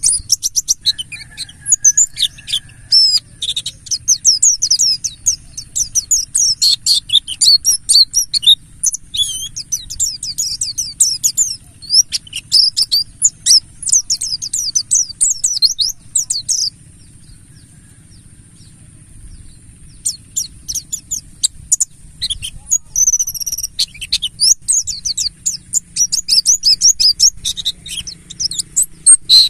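Buxtoni white-eye (pleci) singing a fast, busy twittering song of rapid high chirps and trills. It breaks off for about three seconds past the middle, then resumes.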